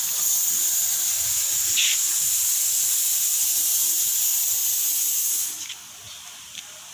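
A loud, steady high-pitched hiss that cuts off abruptly about five and a half seconds in.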